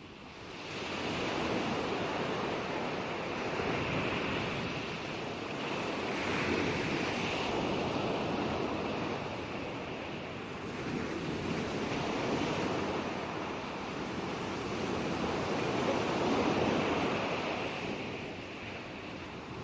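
Ocean waves breaking and washing on a shore, swelling and easing every few seconds.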